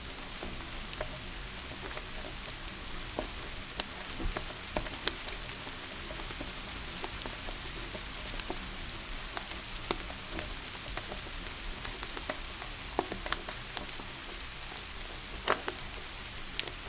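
Steady rain with the irregular sharp pops and crackles of a wood fire burning in a fireplace.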